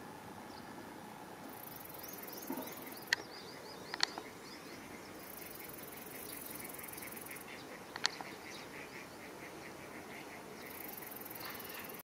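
Outdoor pond ambience: small birds chirping, including a quick run of repeated notes in the second half, over a high insect buzz that comes and goes. Three sharp clicks stand out at about three, four and eight seconds in.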